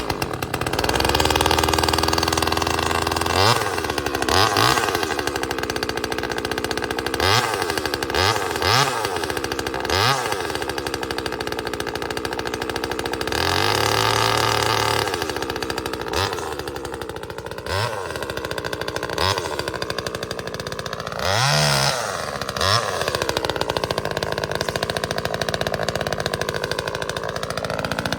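A Neotec NCS2500 25cc two-stroke top-handle chainsaw running and being revved repeatedly in short throttle blips, with a longer stretch under load about 14 seconds in as it cuts brush.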